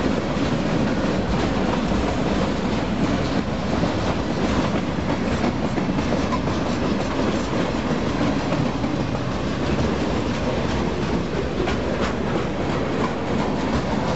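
Freight cars of a long freight train, mostly boxcars, rolling past close by. Steel wheels on rail make a steady rolling noise, with light repeated clicks as the wheels cross the rail joints.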